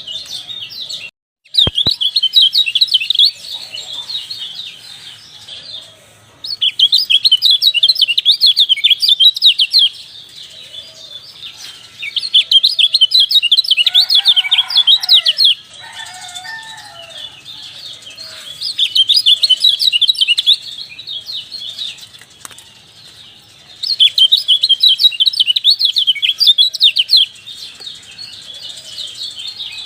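Kecial (white-eye) song: about six loud bursts of rapid, high chirping, each lasting about three seconds, with quieter chirping between them. A softer, lower call comes in about halfway through.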